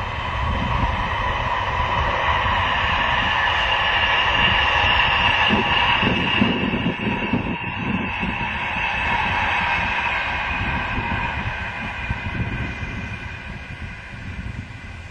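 Voyager diesel multiple-unit train passing at speed on the main line, a rumble with a steady engine hum that peaks about halfway through and fades as the train draws away. Wind buffets the microphone.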